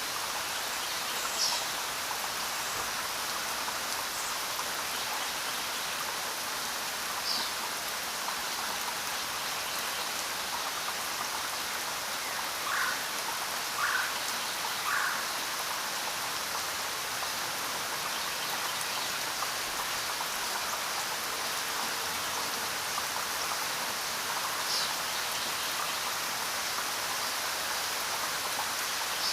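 Steady rain falling as an even hiss, with a few brief chirps over it: single high ones now and then and a quick run of three lower ones about halfway through.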